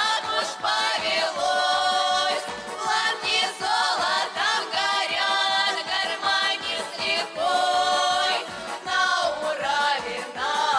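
A group of voices singing a Russian folk-style song over a steady rhythmic accompaniment.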